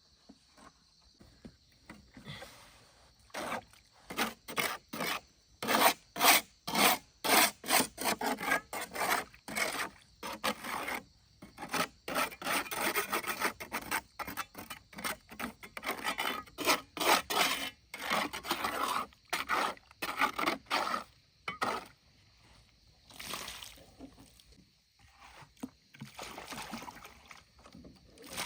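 Hand tool working wood in a steady run of back-and-forth strokes, about two a second, rasping like a handsaw cutting through a board; the strokes stop after about twenty seconds, with a few scattered ones after.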